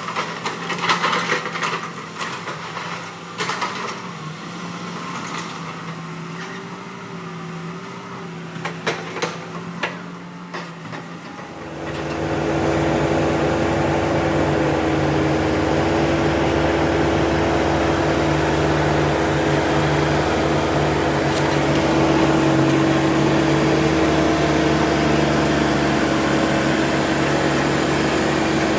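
Wood cracking and knocking as logs are handled by heavy machinery, with a diesel engine running in the background; about 12 s in the sound changes abruptly to a loud, steady heavy diesel engine.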